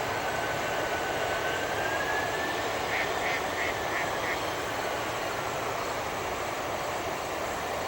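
Steady jet aircraft engine noise with a thin whine that rises slightly in pitch over the first two seconds. About three seconds in come five short calls in quick succession.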